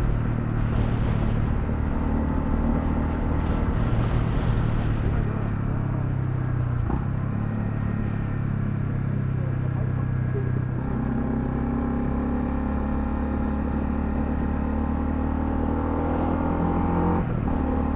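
Honda CL250 motorcycle engine running steadily under way, heard from on the bike. The engine note drops briefly and changes about seven seconds in and again near the end.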